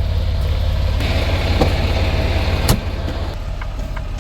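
Diesel truck engine idling with a steady low rapid throb, joined about a second in by a rushing hiss that stops after about two seconds, and two sharp knocks.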